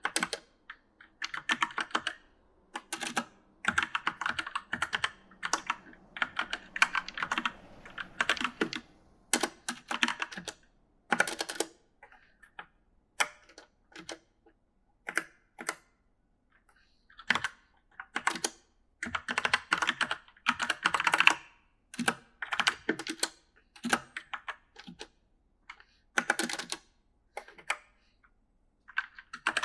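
Typing on an E-Element mechanical gaming keyboard: rapid clacking keystrokes in irregular bursts, with brief pauses between runs.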